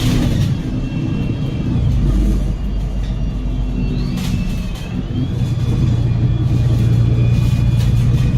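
Cummins L9 inline-six diesel and Voith DIWA automatic drivetrain of an Enviro500 MMC double-decker bus under way, heard from inside the bus. About four seconds in, a thin high whine rises and falls. The engine note then settles into a steadier, stronger drone.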